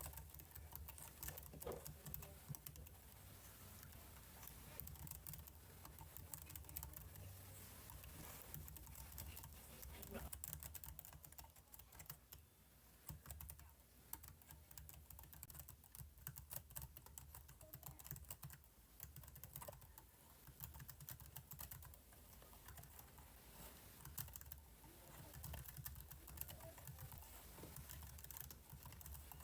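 Computer keyboard typing: a faint, quick and irregular run of key clicks with a few short pauses.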